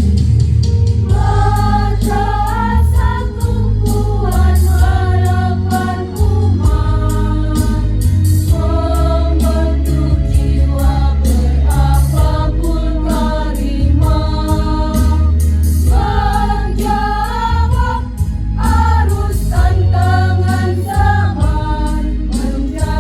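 Choir of teachers and staff singing a song in several voice parts over an accompaniment with a heavy bass line and a steady beat.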